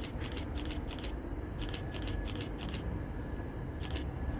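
Class 720 electric multiple unit rolling slowly past: a low rumble with a quick, uneven series of sharp clicks from the wheels over the track, and a faint steady whine.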